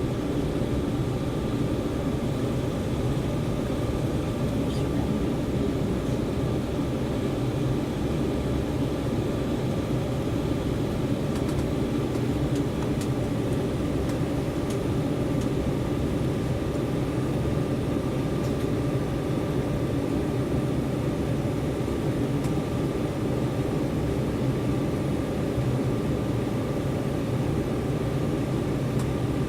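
Steady cabin noise inside an Embraer 190 jet airliner: the engines and airflow make an even, unchanging hum with a thin steady whine above it.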